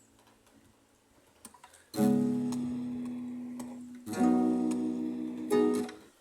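Acoustic guitar playing a song intro: after about two seconds of near quiet, a chord is strummed and left ringing, then two more chords follow, the last one damped suddenly near the end.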